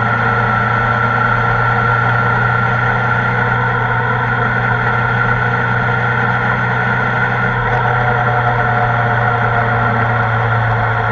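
Kawasaki ZR-7S's air-cooled inline-four engine running steadily at an even speed, with no rise or fall in pitch, as the motorcycle is ridden.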